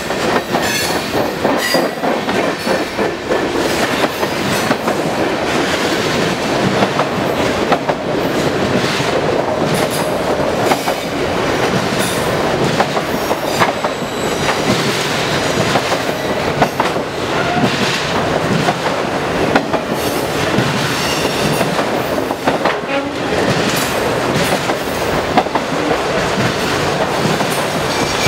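Freight cars of a manifest train (covered hoppers, then autorack cars) rolling past close by. The steel wheels make a steady rumble and rattle on the rails, with knocks now and then.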